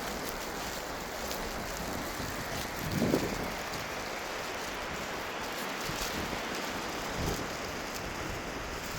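Steady hiss of surf and wind, with a brief low thump about three seconds in and a smaller one near seven seconds.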